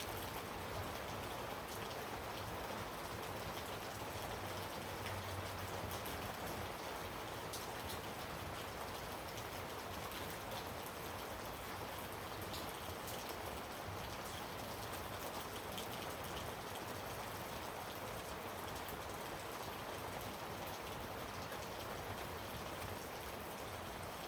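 Steady rain: a continuous even hiss with scattered light ticks of drops.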